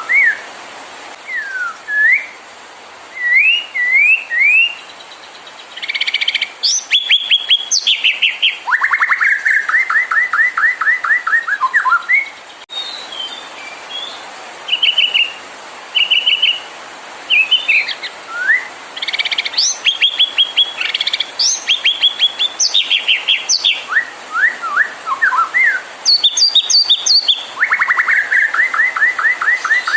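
White-rumped shama (murai batu) singing a varied song of loud whistled phrases: fast rattling trills, runs of repeated high notes and short rising slurs, in bursts with brief pauses between them.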